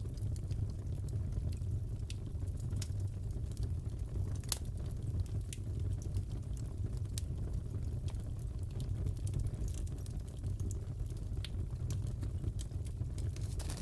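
Crackling fireplace: a steady low rumble of burning wood with scattered sharp pops and snaps every second or so, the loudest about four and a half seconds in.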